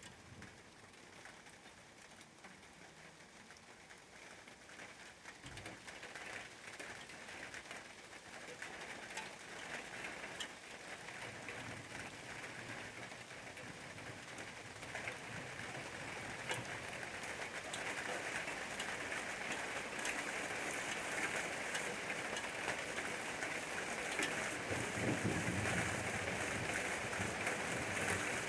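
Rain falling, a steady hiss full of fine drop ticks that builds gradually heavier and louder.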